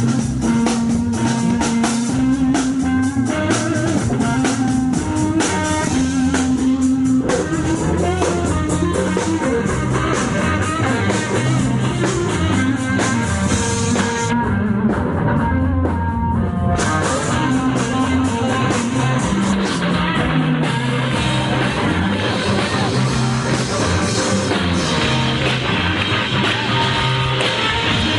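North Mississippi hill country blues played live by a small band: electric guitars built from car mufflers over bass and a drum kit, an instrumental stretch with no singing. The cymbals drop out for a few seconds around the middle, then the full band comes back in.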